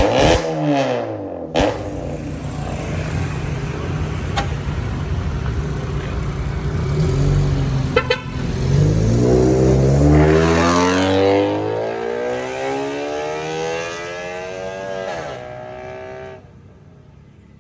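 Honda Civic FD's engine running through an aftermarket valvetronic exhaust with a dual-exit downpipe. There are a few sharp pops, then one rev that rises about nine seconds in and falls back slowly, dropping away near the end.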